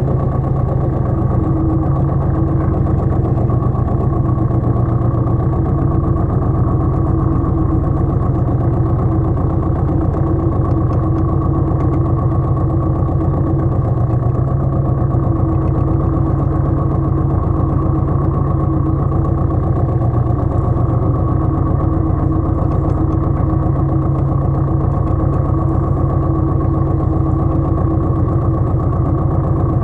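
Pasquali 980 EX compact tractor's engine running steadily at constant speed.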